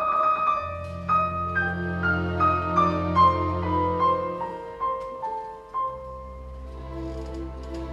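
Piano with a string orchestra: the piano plays a line of single notes that step downward, over long held low notes in the strings. The low strings drop out for about a second midway and then come back in.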